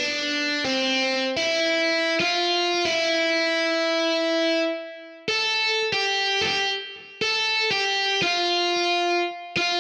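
Music: a slow melody of single plucked guitar notes, one after another, with one note held for about two seconds near the middle.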